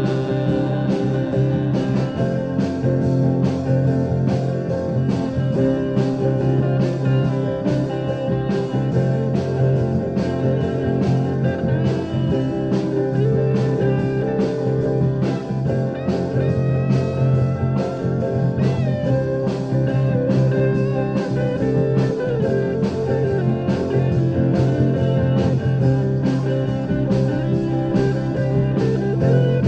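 A rock band playing an instrumental passage with no singing: a steady drum beat under guitar, with bending guitar notes around the middle.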